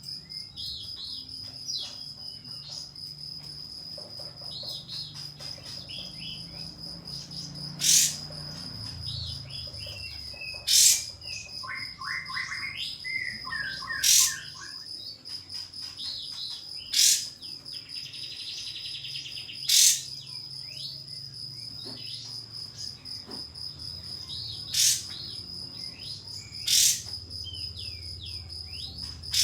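Kapas tembak bulbul calling: a series of quick chirping notes, with a loud sharp 'shot' call about every three seconds, seven in all. A steady high insect trill, like a cricket, runs underneath.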